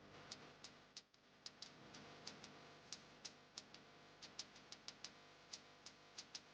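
Faint, sharp clicks at uneven spacing, roughly three a second, over near silence.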